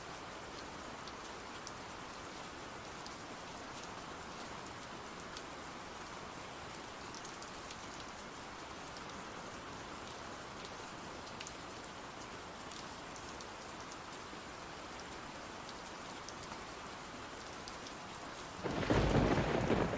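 Steady rain falling, with scattered light drop ticks; near the end a roll of thunder breaks in suddenly and is the loudest sound.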